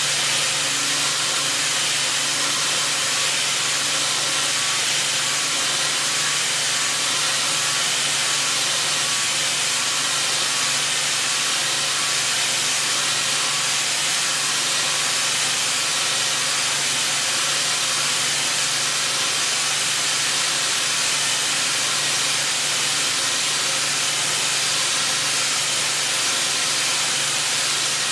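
Milling machine running with a steady, even hiss and a faint low hum underneath, unchanging throughout.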